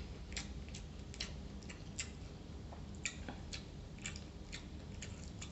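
A person chewing food with the mouth close to the microphone: irregular soft wet clicks and smacks, about two a second.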